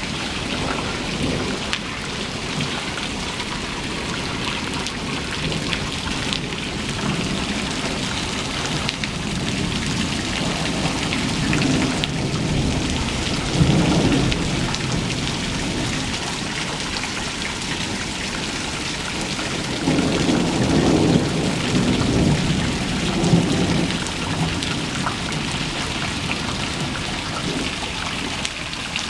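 Steady rain falling, with low rumbling swells about 14 seconds in and again from about 20 to 24 seconds in.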